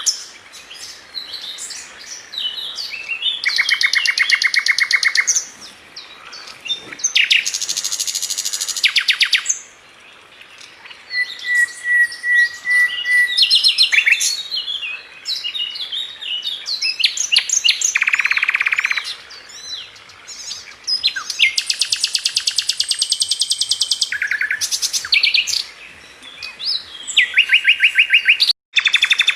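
A Sikatan London flycatcher singing a loud, varied song: fast, buzzy trills of one to two seconds alternate with quick high whistled notes and a short run of evenly spaced lower notes, separated by brief pauses.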